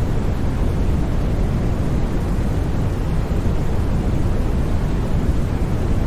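Steady generated noise of the kind sold as white noise for sleep: an unchanging deep hiss, with most of its weight in the low end rather than the bright, even hiss of true white noise.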